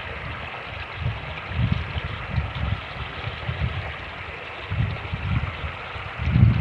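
Fast-moving creek water rushing steadily, with gusts of wind buffeting the microphone as low, uneven rumbles, the strongest near the end.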